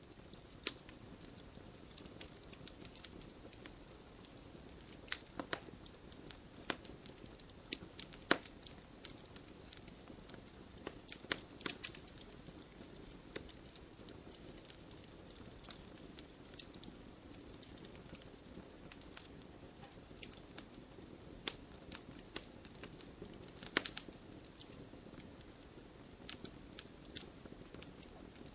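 Fire burning in a fireplace, crackling with frequent irregular sharp pops over a steady low hiss of the flames. A few louder pops come about 8 s, 12 s and 24 s in.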